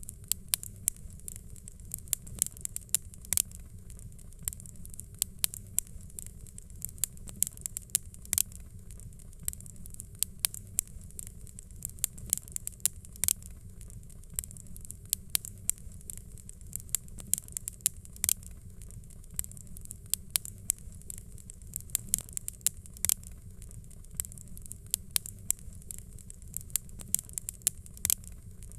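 Fire crackling: frequent irregular sharp pops and snaps over a low steady rumble.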